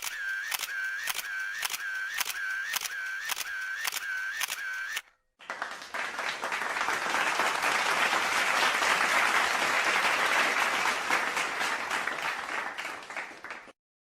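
A run of about ten evenly spaced mechanical clicks, two a second, each with a short chirping tone. After a brief gap comes a dense crackling noise that builds, holds for several seconds, then fades.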